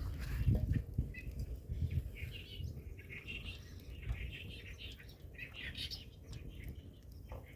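Small birds chirping repeatedly, with a few low thumps in the first two seconds.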